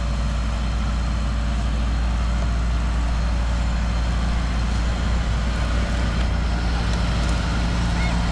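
Heavy diesel construction machinery running steadily with a deep, even engine rumble.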